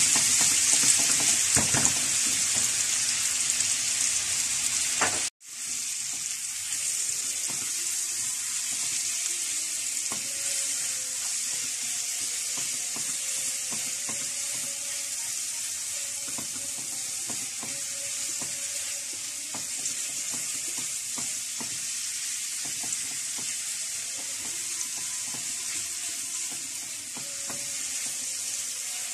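Marinated chicken breast strips sizzling in very hot butter in a nonstick frying pan, stirred with a silicone spatula. The sizzle is louder for the first five seconds, cuts out for an instant, then runs on steadily.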